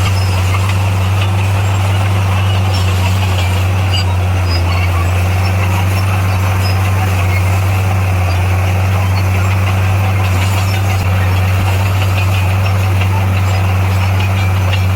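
Heavy diesel engine of earthmoving equipment running steadily with a constant low drone, no revving or change in pitch.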